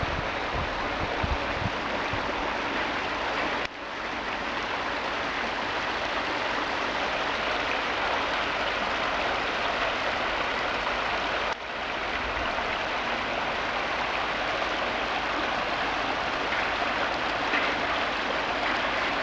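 A forest stream or small river rushing and splashing steadily, broken twice by sudden short dips.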